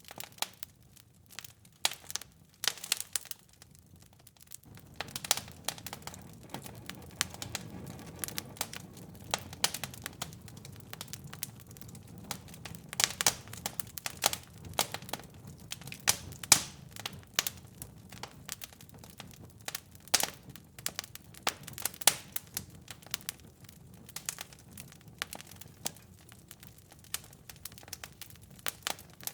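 Wood fire in a fireplace crackling and popping, with sharp irregular snaps. A low steady rush of the burning joins about five seconds in.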